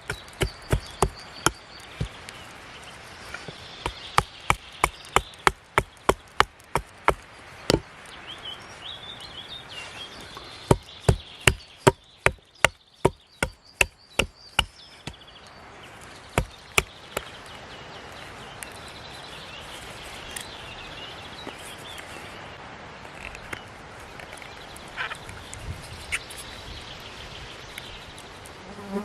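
A blade chopping into a small wooden spoon blank: runs of sharp wooden strikes, about two or three a second, with a short pause about eight seconds in, thinning out to a few scattered knocks after about seventeen seconds.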